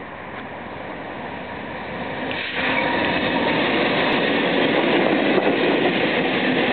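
BNSF freight train approaching and running through a station without stopping. The rumble builds steadily, then becomes suddenly louder about two and a half seconds in as the train comes by.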